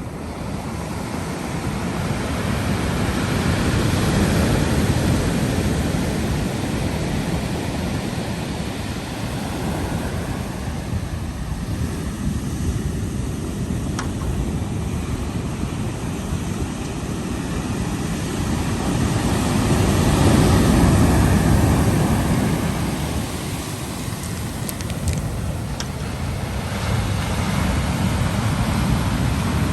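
Ocean surf: waves rolling in and washing back in a continuous rumbling wash, swelling to a peak a few seconds in and again about twenty seconds in.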